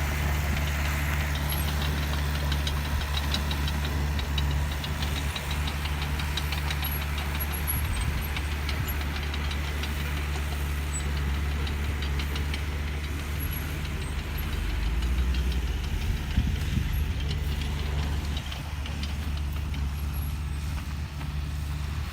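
Diesel engine of a heavy earthmoving machine running steadily, with a fast light clatter over the first several seconds.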